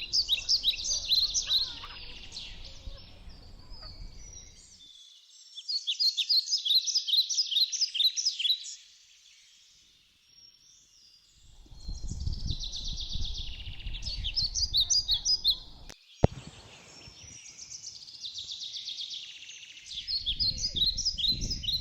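A small songbird singing: phrases of rapid high notes, each two to three seconds long, repeated every five or six seconds. A low rumble comes and goes underneath, and there is a single sharp click about sixteen seconds in.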